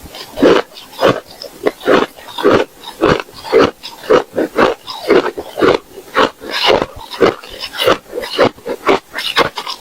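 A person chewing hard ice close to the microphone: loud, crunchy bites at a steady pace of about two a second.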